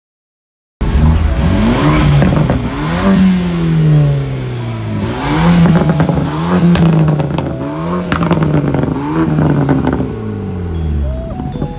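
Car engine being revved repeatedly, its pitch rising and falling several times. It starts abruptly just under a second in.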